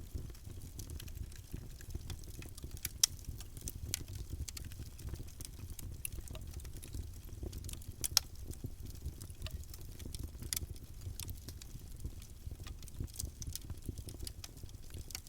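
Campfire burning: a steady low rumble from the flames with frequent small wood crackles and pops, two sharper pops standing out about three seconds and eight seconds in.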